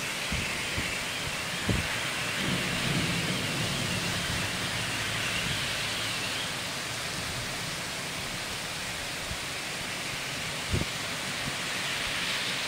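Heavy rain pouring steadily onto a street and parked cars, a constant hiss, with car tyres swishing through standing water. A low rumble rises for a couple of seconds early on, and there are two short knocks.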